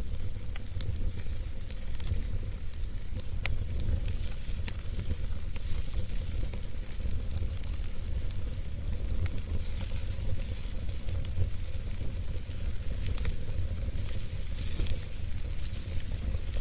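Wood fire burning in a fireplace: a steady low rumble of the flames with a hiss and frequent small sharp crackles and pops from the burning logs.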